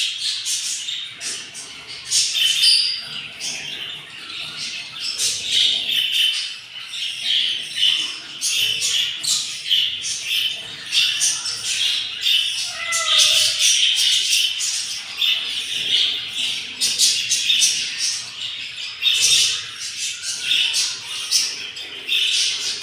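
Budgies chattering: a continuous rapid stream of short, scratchy chirps and squawks, with one brief gliding call about halfway through.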